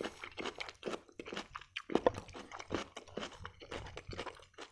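Close-up mouth sounds of a person chewing a mouthful of food: a run of irregular wet clicks and crunches.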